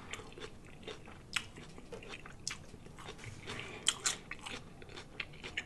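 Close-up mouth sounds of a man chewing food: soft wet clicks and lip smacks scattered through, with a few sharper smacks about a second and a half in and again near four seconds.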